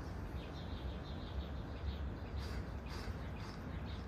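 Faint high bird chirps, a little stronger past the middle, over a low steady outdoor rumble.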